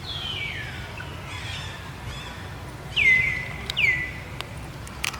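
High-pitched animal calls, each sliding down in pitch and then held briefly at one note; the two loudest come about three and four seconds in, over a steady low background rumble.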